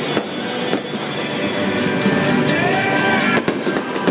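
Music played over stadium loudspeakers during a fireworks show. Several sharp fireworks bangs cut through it, a couple about a second in and a pair more about three and a half seconds in.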